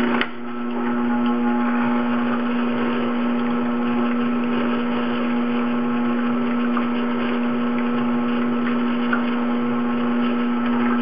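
Tormek sharpening machine running with a steady motor hum while a steel chisel in its jig is ground across the turning stone, a rough, even scraping hiss over the hum as the 25-degree bevel is ground until the marker ink is gone. A brief click just after the start.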